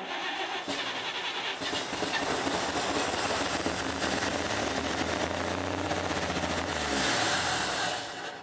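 A Chevy rat-rod pickup engine being cranked on its starter for about eight seconds, then winding down near the end. The engine is starved of fuel and does not get going.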